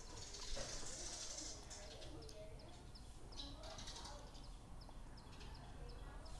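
Quiet outdoor background with birds chirping faintly: a string of short high chirps comes several times a second through the middle, over a low steady hum.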